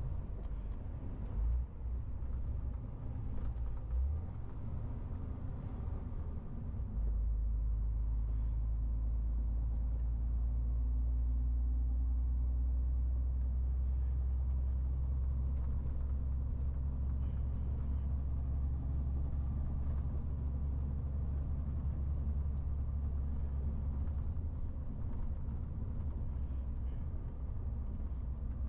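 MAN TGX 18.470 truck's 12.4-litre straight-six diesel running as the truck drives, a steady low drone with road rumble. About seven seconds in, the engine note steps up and grows louder, then holds steady.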